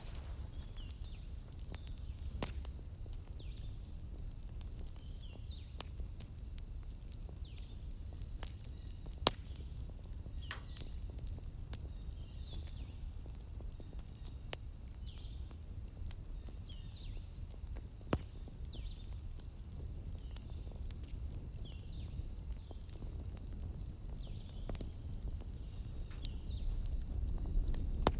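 Wood fire burning with a low rumble and a few sharp crackling pops, spaced several seconds apart. A steady high-pitched trill and short repeated falling chirps run in the background.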